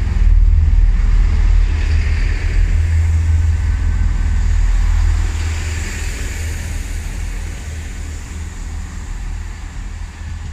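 Class 166 diesel multiple unit arriving, a loud low rumble that fades gradually after about five seconds.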